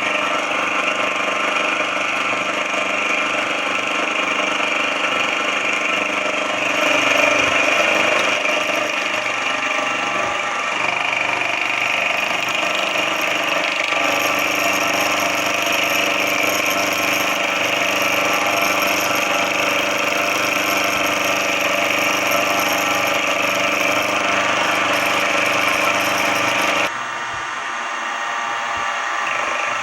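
Benchtop machine tool running steadily, its electric motor and gear train giving a constant whine with a hiss over it. About three quarters of the way through the sound changes abruptly and drops in level.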